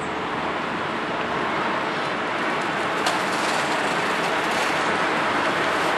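Locomotive-hauled S-Bahn train passing, a steady rolling noise of wheels on the rails that grows a little louder through the second half, with a faint click about three seconds in.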